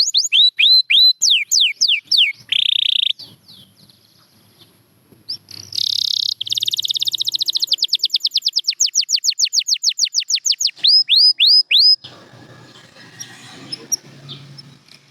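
Canary singing: a run of falling whistled notes, a short buzzy phrase, then a long fast trill of repeated notes, closing with a few slower falling whistles. The song stops about twelve seconds in, leaving faint low background noise.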